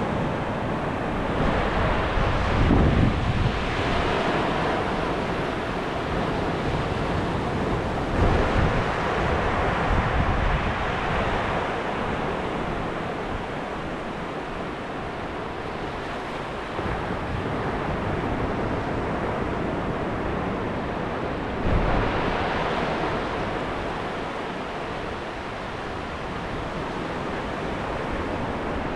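Ocean surf washing onto the beach, rising and falling as small waves break, with wind rumbling on the microphone.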